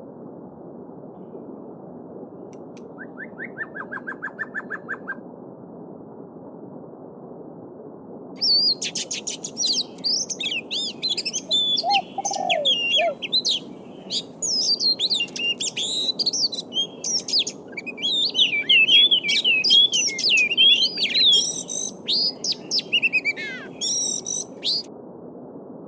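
A small stream babbling steadily under songbirds singing. A short trill comes about three seconds in, then a long, fast, varied song of high warbling and whistled notes runs from about eight seconds until shortly before the end.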